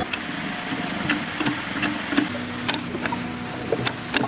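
Two-speed hand hydraulic pump being worked, scattered sharp clicks at irregular spacing as it drives a hydraulic cylinder, over a steady low machine hum.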